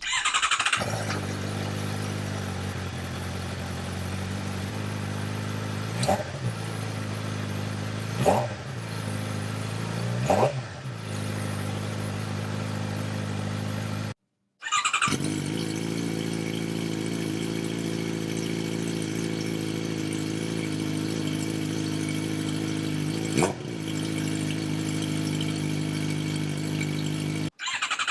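Motorcycle engine idling through a stock muffler cut down into a shorty exhaust, with three quick throttle blips about two seconds apart and a fourth later on. The sound cuts out briefly twice.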